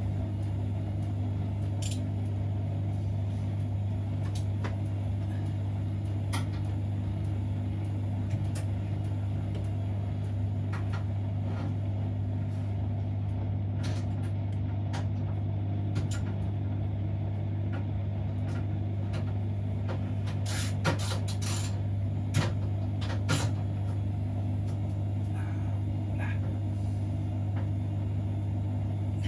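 Siemens Extraklasse XLS 140 A washing machine running its 60°C cottons wash with a steady low hum. Scattered light clicks and knocks come through, a small cluster of them about two-thirds of the way in.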